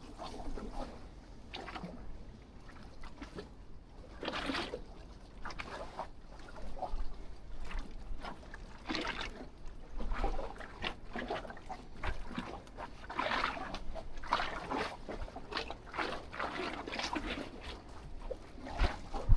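Lake water lapping and splashing against the wharf pilings in irregular slaps and sloshes.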